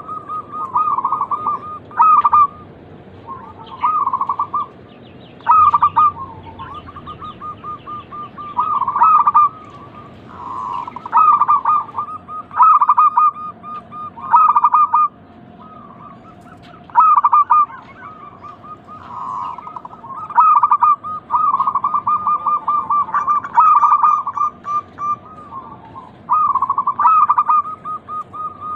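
Zebra doves (perkutut) singing: repeated cooing phrases, each a quick run of short staccato notes, one starting about every two seconds and sometimes overlapping.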